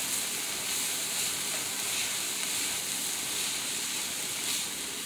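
Sliced Brussels sprouts sizzling steadily in a hot enameled cast iron pan while they are being stirred.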